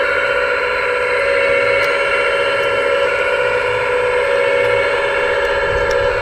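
Steady, even whine of a scale RC hydraulic model's pump and motors running, several held tones at once with a slight flutter.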